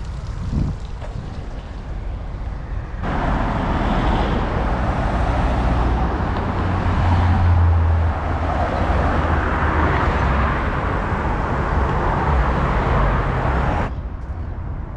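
Road traffic passing: a steady rumble of car engines and tyre noise that swells for about ten seconds in the middle and then drops back abruptly.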